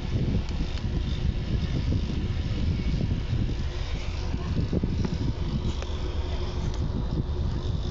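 Steady low rumble of a vehicle running, with a few faint ticks.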